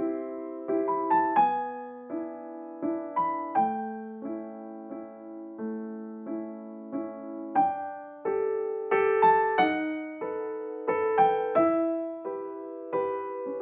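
Background piano music: a gentle melody of single struck notes, each fading away before the next.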